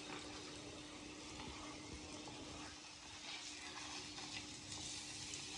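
Faint, steady sizzle of stuffed potato parathas frying in butter on a hot non-stick plate, a little louder in the second half, over a steady low hum.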